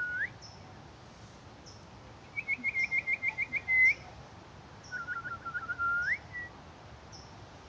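A bird singing three whistled phrases, each a quick run of short notes followed by a rising slur; the second phrase sits higher and the last lower.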